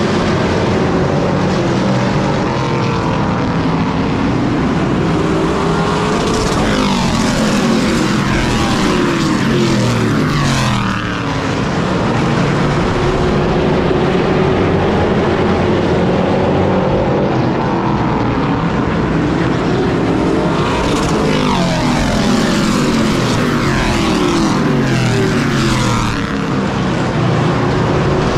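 Pro race truck engines running laps at racing speed. The engine note climbs and then drops in a cycle that repeats about every fourteen seconds, twice.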